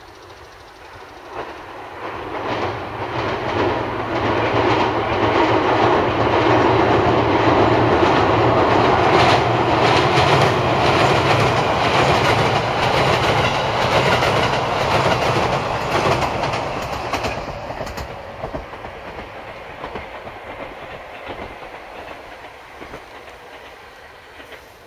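JR Kyushu limited-express electric train running across a steel girder railway bridge. The rumble builds over the first few seconds and holds loud for about ten seconds, with wheels clicking over rail joints. It then fades steadily as the train moves away.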